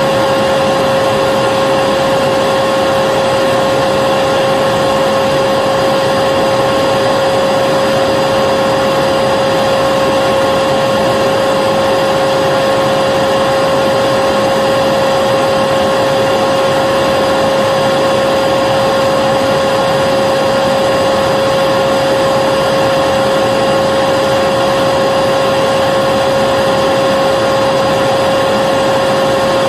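Vacuum cleaner running continuously: a steady rush of air with a constant motor whine, unchanging.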